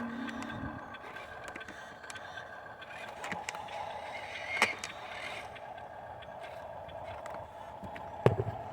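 Radio-controlled toy dump truck's electric drive motor and gearbox running with a steady whine. There is a sharp click about halfway through and a louder one near the end.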